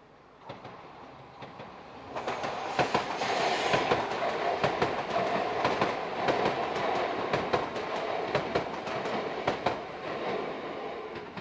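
Electric passenger train passing over a level crossing. It builds about two seconds in, with a run of sharp clicks from the wheels over the rail joints over a steady rumble, and fades near the end.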